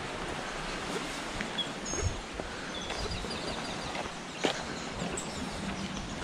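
Steady outdoor background hiss with a few short, high bird chirps about two and three seconds in, and a couple of faint taps.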